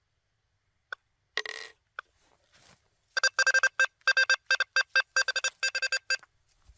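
Quest V80 metal detector giving audio target beeps: a single short beep about a second in and another at two seconds, then a rapid string of short beeps of one steady pitch for about three seconds as the coil sweeps over the nailboard targets.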